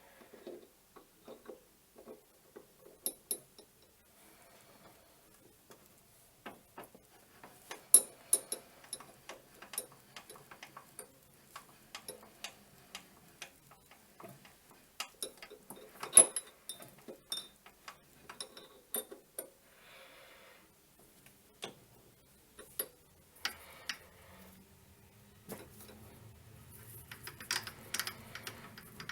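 Irregular sharp metallic clicks and taps of small steel parts and hand tools being handled and set down by a metal lathe, with no machine running for most of the time; a low hum comes in near the end.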